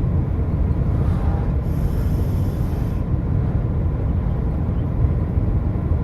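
Steady low rumble of a moving vehicle, heard from inside it. A faint high whine comes in briefly about two seconds in.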